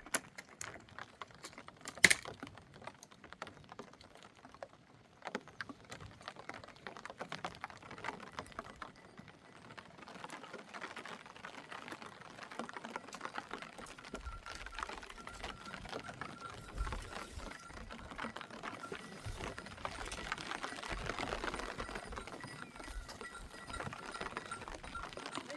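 Rain pattering in many small irregular taps, with one sharp knock about two seconds in.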